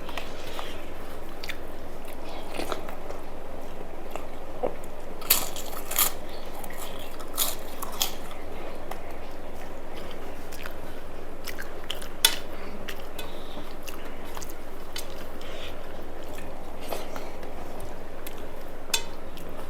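Close-up eating sounds: chewing a meal of rice and fried food, with several sharp crunches or clicks scattered through, the loudest about twelve seconds in.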